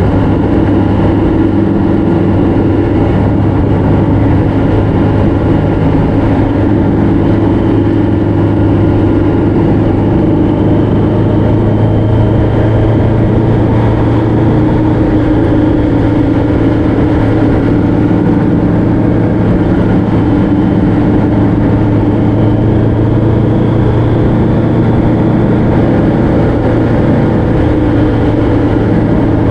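A vehicle engine running steadily at cruising speed, with road and wind noise, while under way on the road.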